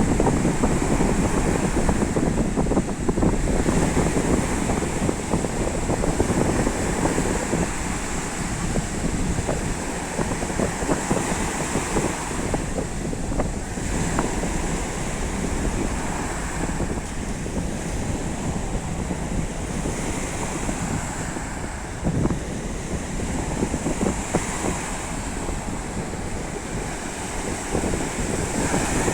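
Sea waves washing onto the shore in a steady, rolling wash, with wind buffeting the microphone. A faint thin high tone runs steadily underneath.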